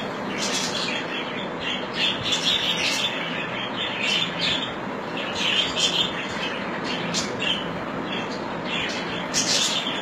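Birds chirping, with short calls repeating every second or so over a steady background hiss.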